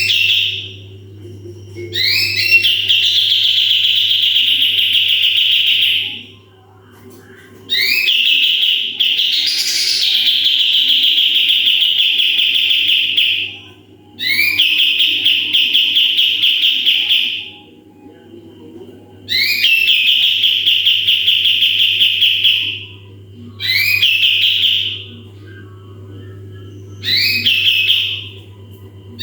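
Kapas tembak songbird singing its 'tembakan' song: phrases that open with a quick upward sweep and run into a long, fast, rattling trill, about seven times with short pauses between. A steady low hum runs underneath.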